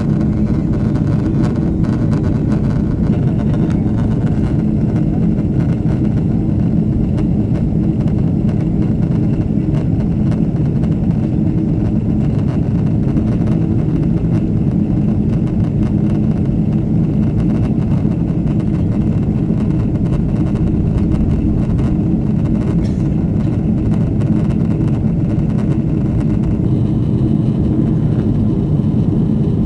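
Steady cabin drone of a Boeing 777-300ER in flight after takeoff: a low rumble of its GE90-115B turbofan engines and airflow, with a steady hum underneath.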